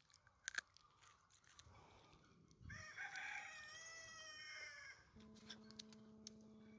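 A rooster crows once, a single call of about two seconds, after a couple of sharp clicks. It is followed by a steady, unwavering low tone held for about two seconds.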